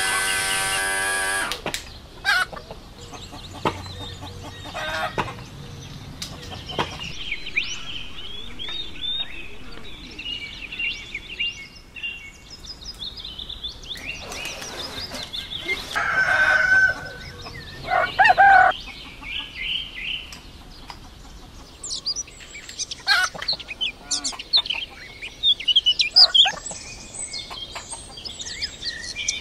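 Birds calling: a long, many-toned call in the first second and a half, then assorted chirps and short calls scattered throughout.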